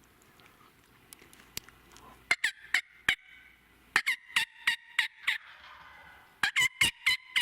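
Turkey yelping: three runs of sharp, evenly spaced notes, about four a second, each note dropping in pitch. The last run is the longest.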